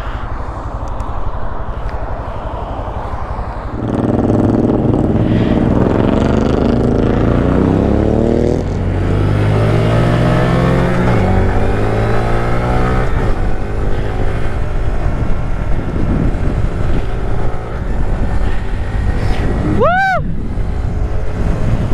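Honda Grom's 125 cc single-cylinder engine accelerating, its pitch climbing for about four seconds, dropping briefly at a gear change, then climbing again through the next gear, over steady wind rush on the microphone. Near the end a short high tone rises and falls once.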